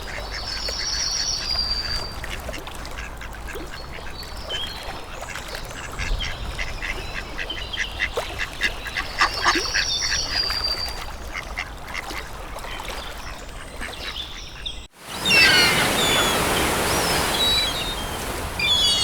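Bird calls: a run of quick, quack-like calls with a high songbird trill twice over them. About fifteen seconds in, a sudden cut brings a loud, steady rushing noise with short bird chirps over it.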